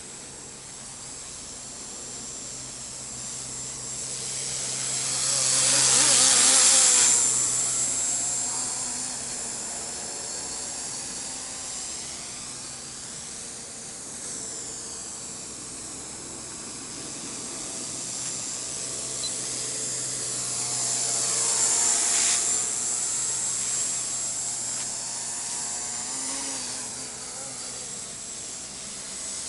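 Walkera Master CP micro RC helicopter in flight, its 3800KV brushless main motors giving a high whine over the rotor noise, with the pitch sweeping up and down. It gets much louder twice, about six seconds in and again about twenty-two seconds in, as it comes near. It is running smoothly after the main-motor repair.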